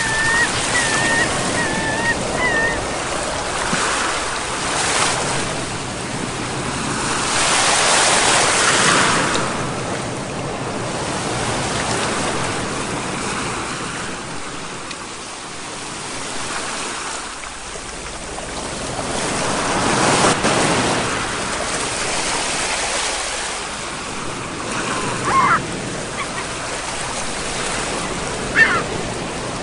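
Sea waves washing ashore in slow surges that swell and fall back every few seconds. A wavering high tone sounds in the first few seconds, and two short sharp sounds come near the end.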